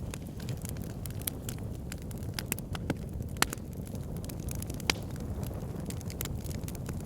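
Backyard fire pit burning, crackling steadily with many small snaps over a low, even rumble, and two louder pops about three and a half and five seconds in.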